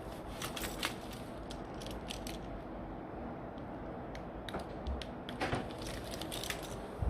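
Steady background noise with scattered light clicks and rustles.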